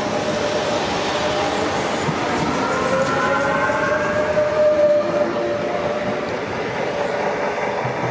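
Civia electric commuter train running past close by, with a steady electric whine and higher whines that rise in pitch about three seconds in. The sound eases slightly as the last cars go by.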